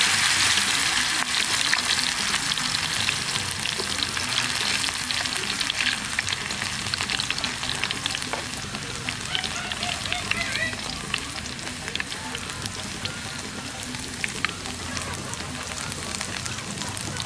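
Sliced spring onion and bird's-eye chilies sizzling in hot frying oil, with scattered crackles and pops. The sizzle is loudest at first and gradually settles.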